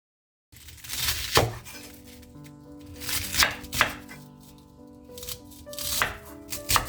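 A knife cutting food on a cutting board, about five strokes, each ending in a sharp knock on the board.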